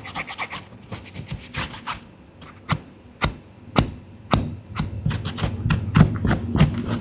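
A series of sharp knocks and taps, some spaced about half a second apart in the middle and more irregular later.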